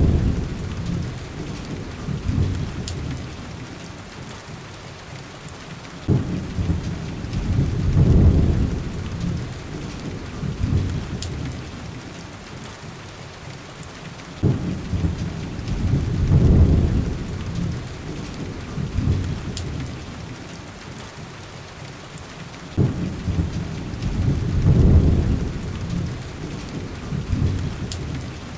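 Heavy rain on a window glass with rolls of thunder. A low rumble breaks in suddenly about every eight seconds, swells, then fades back into the steady rain.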